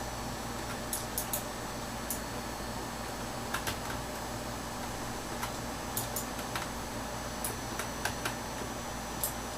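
Scattered short, sharp clicks at irregular intervals over a steady hum of room noise.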